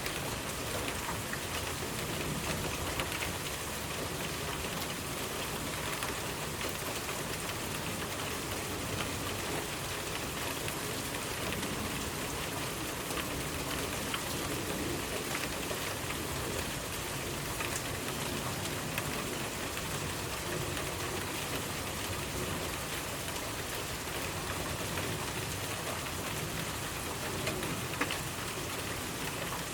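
Steady rainfall, an even hiss of rain with scattered sharper drop ticks.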